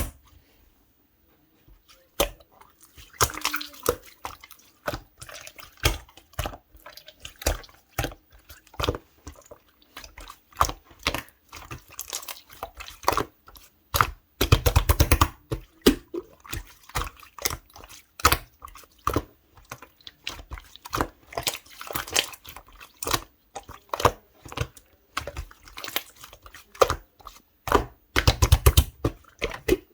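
Clear yellow slime being squeezed and pressed by hand: irregular wet clicks and pops as air pockets burst. Three bursts of fast crackling come near the start, about halfway through and near the end.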